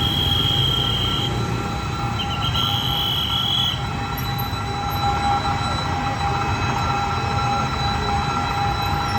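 Passenger train rolling over a level crossing with steady wheel-on-rail rumble. Two stretches of high-pitched wheel squeal come in the first four seconds, each lasting about a second.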